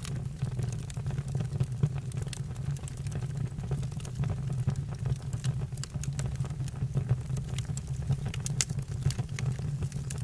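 Campfire burning: a steady low rumble with scattered sharp crackles and pops, a few louder ones near the end.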